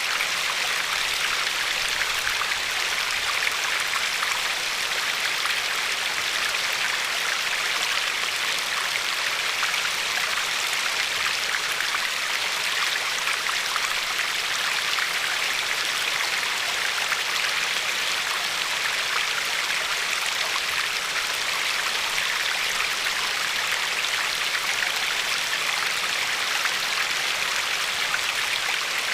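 River water flowing and lapping over a pebble shore: a steady, even rush with fine splashing and bubbling.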